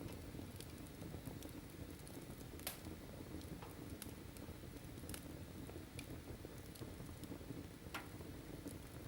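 Wood fire in a fireplace crackling: irregular sharp pops, a few each second, over a steady low rush of burning.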